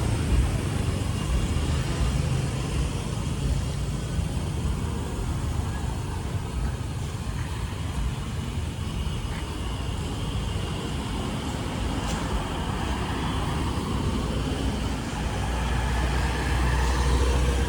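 Street traffic: a steady hum of passing vehicles' engines and tyres, with a louder low rumble near the end as a vehicle comes close.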